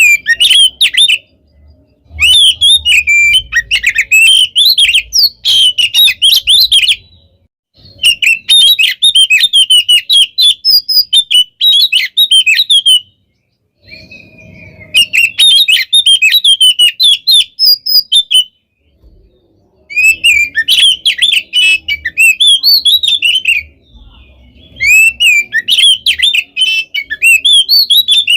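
Oriental magpie-robin (kacer) singing loudly in long, dense phrases of rapid chattering notes and trills, about six phrases of several seconds each with short pauses between.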